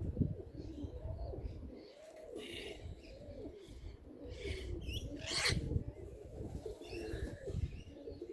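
Domestic pigeons cooing over and over, their calls overlapping, with a few short rustling noises, the loudest about five and a half seconds in.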